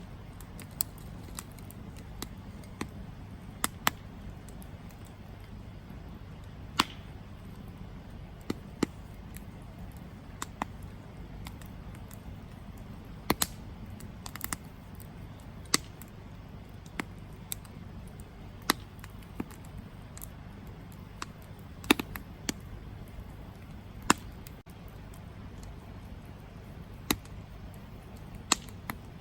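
Campfire burning, with irregular sharp crackles and pops, about one a second, over a steady low rumble.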